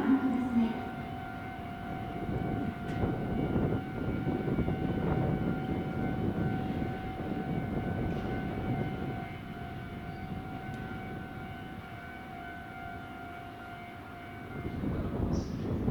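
E7 series Shinkansen trainset rolling into the platform: a rumbling running noise with a steady electrical hum over it. The hum stops near the end.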